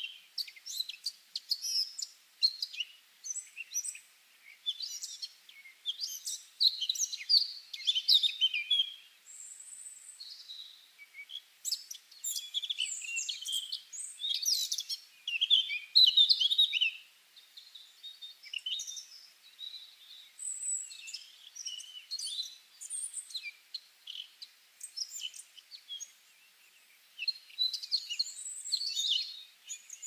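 Several birds chirping and singing in quick, overlapping high calls and trills, with a thin steady whistle held for about a second twice along the way and a short lull near the end.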